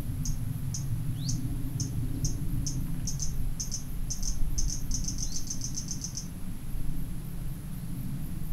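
A small bird's song of short, high chirps that come faster and faster, run into a rapid trill and stop about six seconds in, with one downward-sliding note near the start. Under it is a steady low rumble of outdoor background noise.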